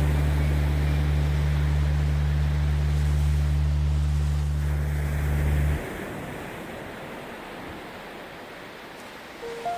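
Ocean waves washing in a steady rush of surf, under a deep steady hum that cuts off suddenly about six seconds in.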